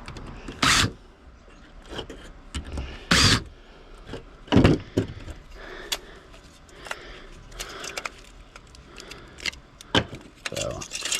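Small pieces of metal and electronic scrap clinking and clattering as they are handled and tossed into a pile, in scattered knocks a second or two apart.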